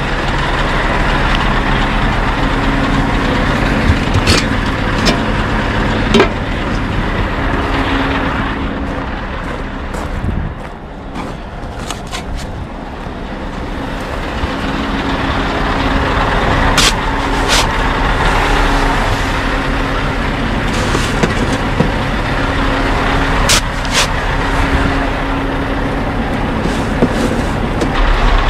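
Scania R580 truck's V8 diesel engine idling steadily, with a few sharp clicks and knocks over it.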